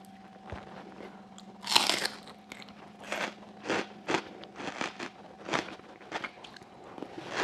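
Close-miked eating sounds: one loud, wet mouth sound about two seconds in, then steady chewing of chickpeas in sauce at about two chews a second.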